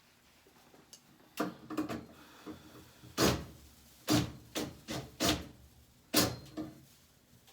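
A run of irregular knocks and scraping rubs, about eight in all, spread over several seconds: hard objects being handled and bumped against wood or board.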